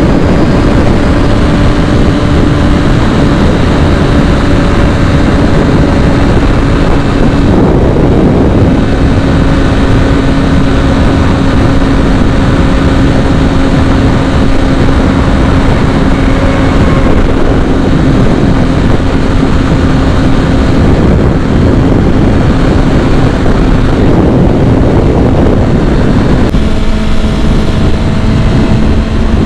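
Kawasaki ZX-6R sport bike engine running at a steady high speed under way, its note holding steady over a constant rush of noise, then dropping to a lower pitch near the end as the revs come down.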